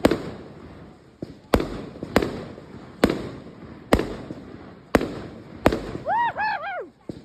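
Fireworks exploding: a string of about seven sharp bangs, roughly one a second, each trailing off in a rumbling echo.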